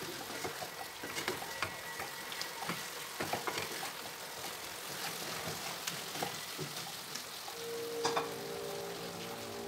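Chicken curry with potatoes and peas sizzling in oil in a non-stick kadai as it is sautéed down in its masala (kasha). A wooden spatula stirs and scrapes through it, giving scattered clicks and scrapes over the steady sizzle.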